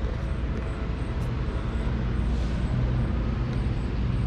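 Train passing, a steady low rumble.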